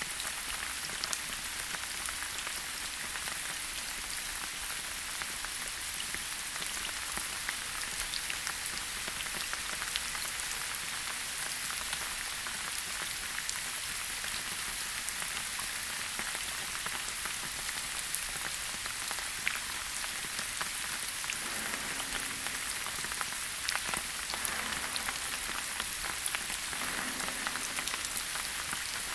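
Steady rain falling, an even hiss with many small drop taps scattered through it.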